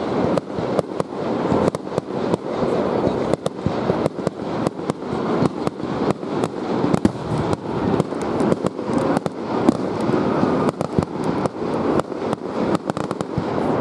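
Fireworks going off in a dense barrage: sharp bangs several times a second over a continuous rumble of overlapping blasts.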